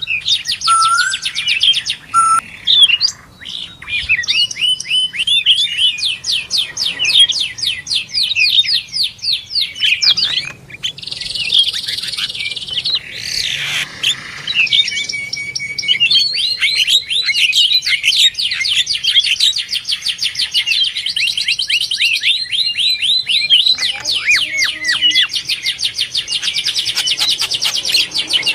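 Small birds chirping in long, fast runs of short high calls, several a second, with brief pauses between the runs.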